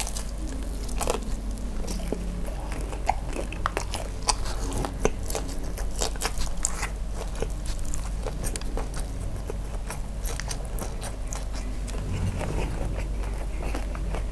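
Close-miked eating: a person biting and chewing firm shrimp-and-cheese dim sum and noodles, with many small wet mouth clicks scattered throughout.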